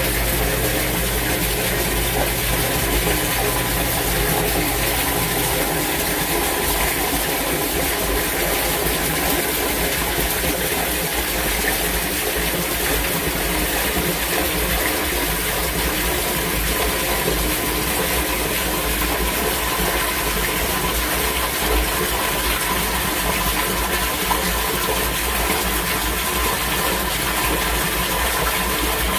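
Water rushing steadily through an outdoor sump pump drainage system in heavy rain, over a steady mechanical hum; a low part of the hum drops out about five seconds in.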